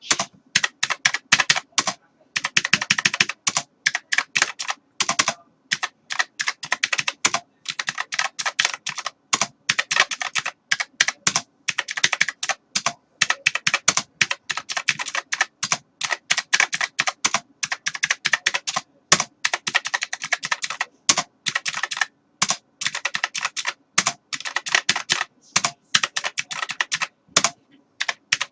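Typing on a computer keyboard: rapid runs of keystroke clicks broken by short pauses.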